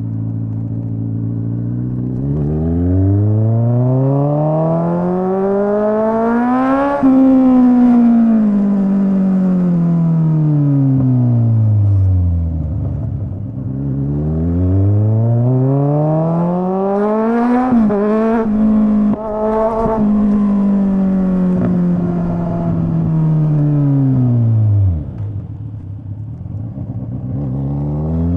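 Straight-piped Kawasaki Z900 inline-four engine, revving up from idle and falling back twice. The second pull has a sharp drop in pitch like an upshift before the revs hold, then settle back to idle near the end.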